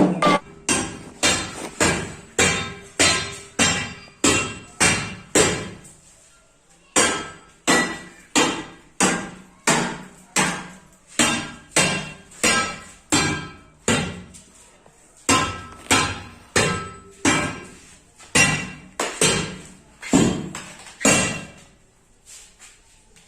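Hammer blows chipping at old floor flooring, a steady run of sharp strikes about two a second, each with a short ringing note. There are brief pauses twice, and the strikes stop near the end.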